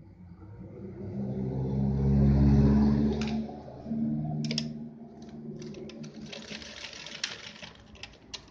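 Yamato 673 zigzag sewing machine running a cam-pattern stitch test. The motor hum rises over a couple of seconds, falls away, and runs briefly again. It then gives way to a series of sharp clicks.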